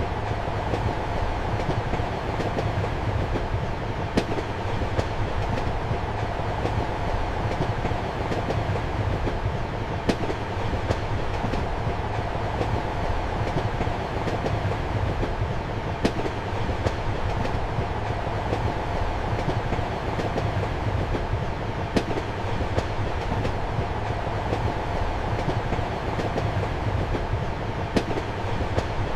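Passenger train running steadily, heard from inside a compartment: a constant low rumble and hum with wheel clatter on the rails, and a faint sharp click every six seconds or so.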